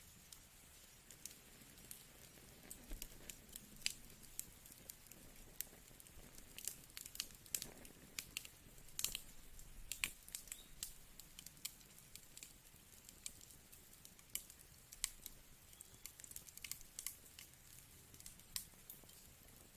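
Wood fire crackling: irregular sharp snaps and pops over a faint hiss, coming thickest in the first half and sparser toward the end.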